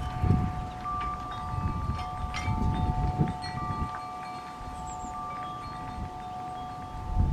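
Wind chimes ringing, long overlapping notes at a few different pitches, with gusts of wind rumbling on the microphone.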